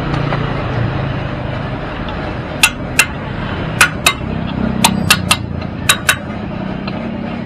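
A series of sharp hammer-like strikes, about nine in four seconds and often in quick pairs, as a tool works on a scooter's rear tire during its replacement. A steady background hum runs underneath.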